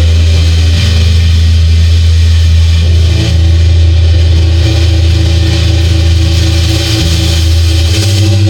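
Loud live rock band, with heavily distorted electric guitar and bass holding a sustained low droning chord that shifts pitch a couple of times.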